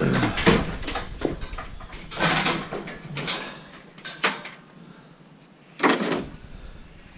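Scrap metal being handled: several short scraping, rattling bursts, the loudest about six seconds in, and a single sharp clank around four seconds.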